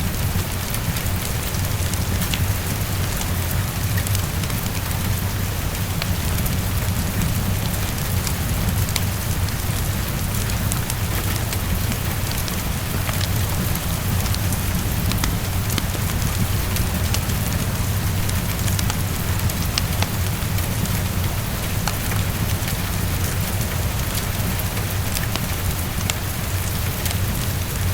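Heavy rain falling steadily against a window, a dense even hiss over a low rumble, with scattered sharp little clicks.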